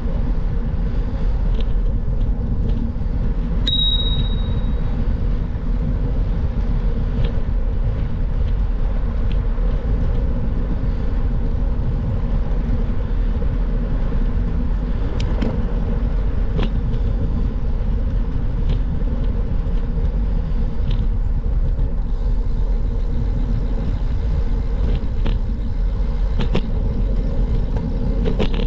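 Steady low wind rumble over the microphone of a moving bicycle, with a few faint clicks and a short high note about four seconds in.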